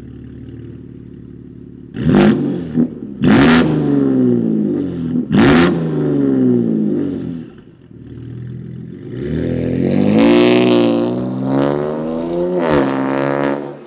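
BMW S58 twin-turbo straight-six exhaust, with catless downpipes and a no-brand equal-length midpipe, idling and then blipped sharply three times a second or two apart. It is then held up in the revs for about three seconds, with one more blip near the end. The owner finds this setup too raspy and metallic at low revs.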